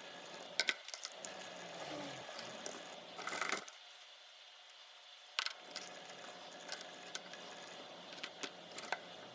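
Small clicks and taps of tools and small parts being handled while a compact digital camera is worked on, with a short scraping rustle a little over three seconds in.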